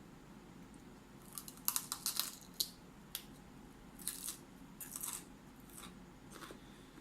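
Raw broccoli being chewed close to the microphone: crunching that comes in clusters of crisp crackling clicks, the densest about two seconds in and again around four to five seconds.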